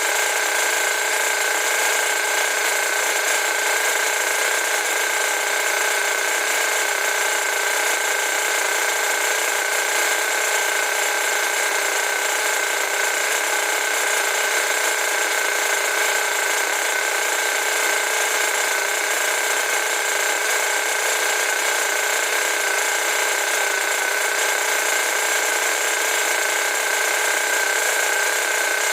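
A small motor running at a constant speed, a steady mechanical whirring with a few fixed tones and no change in pitch or level.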